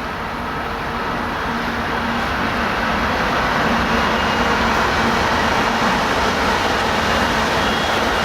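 Train approaching: a steady rumble and rush that grows gradually louder.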